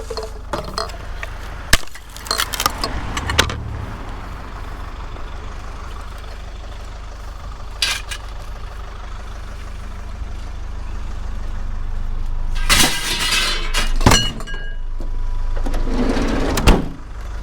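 Scrap, a large ceiling fan among it, being handled, with several short bursts of clattering and knocking over a steady low engine idle.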